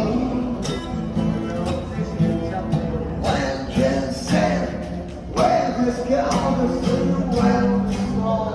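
Acoustic guitar strummed with a steady beat, with a voice singing along for most of it.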